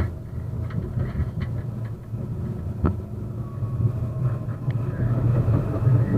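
71-931M Vityaz-M low-floor tram running on rails, heard from on board: a steady low rumble with a few sharp clicks. From about halfway, a faint electric whine falls slowly in pitch.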